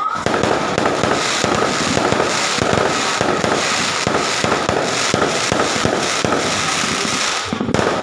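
Fireworks crackling in a rapid, continuous run of small pops, with a steady high whistling tone running through it. It breaks off briefly near the end.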